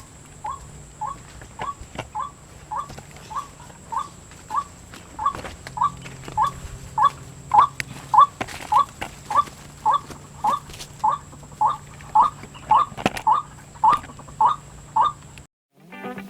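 White-breasted waterhen (ruak-ruak) call: a short note repeated steadily about twice a second, which stops suddenly about a second before the end.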